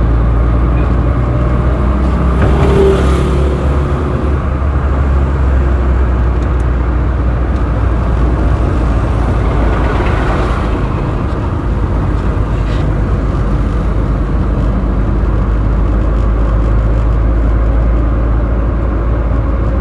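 Road traffic heard from a moving vehicle: a steady low engine and road rumble, with other vehicles swelling past about three seconds in and again around ten seconds in.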